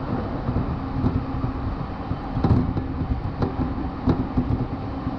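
Joban Line commuter train running along the track, heard from inside the car: a steady low rumble with a constant hum and a few sharp clunks as the wheels pass over rail joints.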